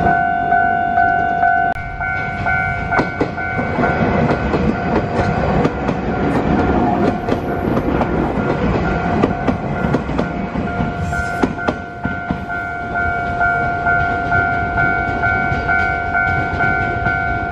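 An Iyotetsu suburban-line train rolls over the crossing-point pointwork, its wheels clicking and clattering through the frogs and rail joints. Behind it a two-tone railway crossing warning bell rings in even pulses, about two a second. The bell is partly covered while the train passes and comes back clearly about eleven seconds in.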